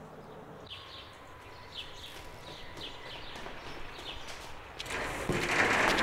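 A small bird chirping over and over, short high chirps about every half second, against faint outdoor background noise. Near the end a louder, steady rushing noise comes in.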